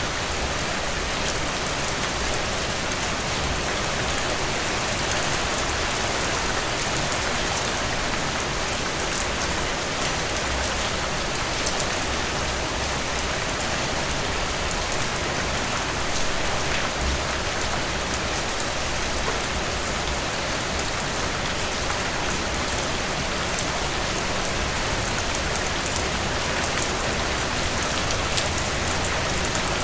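Steady rainfall with individual drops ticking on a surface, an even hiss with no thunder.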